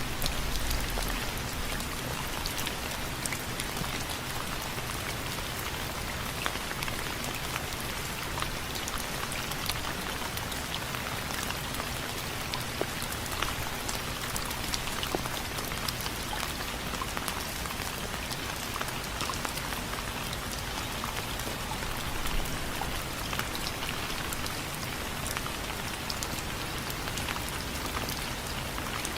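Steady rain on window frames, a constant hiss of rainfall with many individual drops ticking sharply against the frame.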